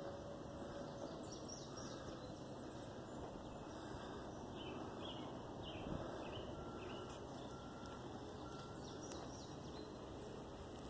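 Faint, short bird chirps scattered over a steady outdoor background hiss, with one soft thump about halfway through.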